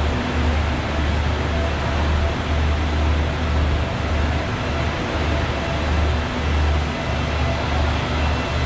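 Steady drone of a passenger train standing at the platform, its engine and air-conditioning units running: a strong low hum that swells and eases under an even rushing noise, with a few faint steady tones.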